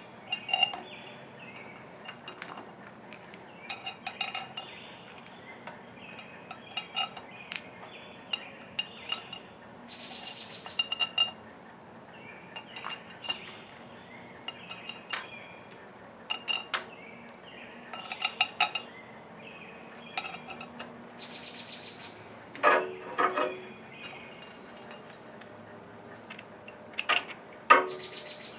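Metal hand tools clinking and tapping on the engine as its cylinder head is bolted back on: scattered sharp clinks with short ringing, now and then a quick run of ratchet-like clicks, and louder clanks near the end.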